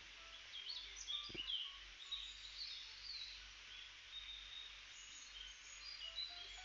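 Small birds chirping in the background: many short, high chirps and quick little whistles, faint and scattered. One brief soft knock comes about a second and a half in.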